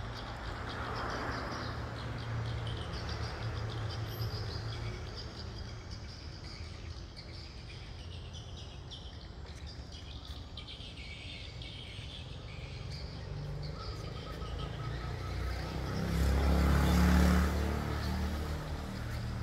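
Birds chirping and calling over a steady low background hum, with a swell of louder low rumbling noise for a couple of seconds near the end.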